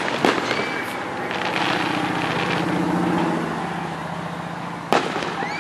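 Aerial fireworks: a sharp bang just after the start and another near the end, over a steady crackling hiss. In between, a low steady hum comes up and fades.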